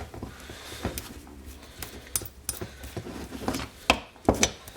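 Small metal lathe parts and tools being handled on a workbench: scattered light clicks and knocks, with two sharper knocks close together near the end.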